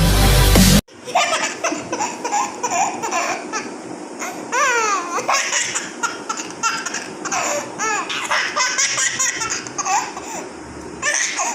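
Electronic music with a heavy beat cuts off abruptly under a second in. After that, a baby laughs in repeated bursts of giggles and high squeals.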